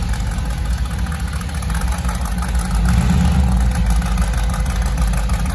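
Racing car engine idling, a loud low rumble that grows a little louder about three seconds in.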